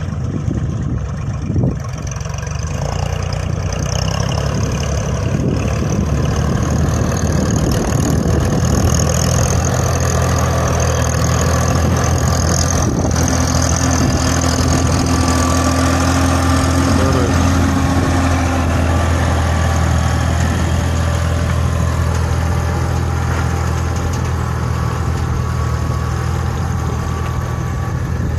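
Farmtrac mini tractor's diesel engine running steadily.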